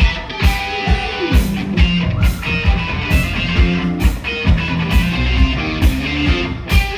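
Live rock band playing: electric guitar over drums keeping a steady beat of about two hits a second.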